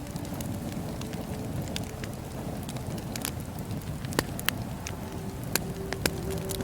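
Wood fire crackling: a steady low rush of burning with sharp, irregular pops scattered through it, about a dozen in all.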